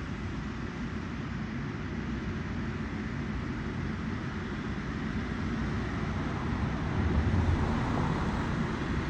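Engine of a harvesting machine running steadily with a deep rumble. It grows somewhat louder about seven seconds in.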